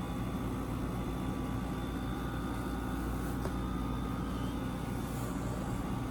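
Window air conditioner running: a steady low hum of compressor and fan, with a faint tick about three and a half seconds in.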